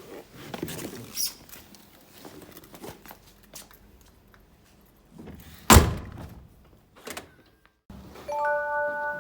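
Scattered small clicks and knocks, then one loud thunk like a door shutting a little under six seconds in. Near the end a steady electronic chime of several held tones begins.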